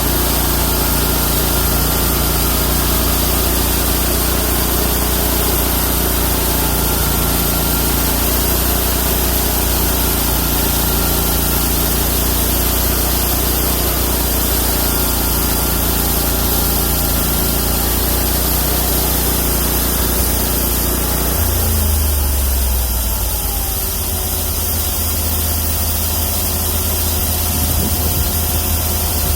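31 hp engine of a homemade bandsaw mill running steadily, its carbide-tipped band blade cutting through a Chinese toon log. A little over two-thirds of the way in, the engine note shifts lower and the cutting hiss fades as it settles toward idle.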